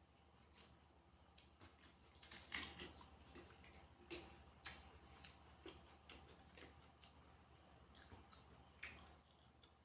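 Quiet eating sounds: scattered soft clicks and small crunches of chewing, with a few louder ones around two and a half seconds in, around four to five seconds in, and near the end, over a faint steady hum.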